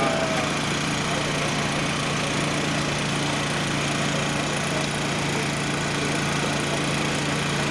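Daihatsu SKC7 three-wheeled truck's engine running steadily, with an even low hum.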